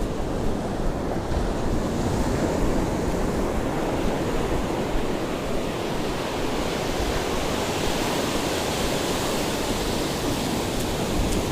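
Ocean surf breaking and washing up the beach in a steady rush, with some wind buffeting the microphone.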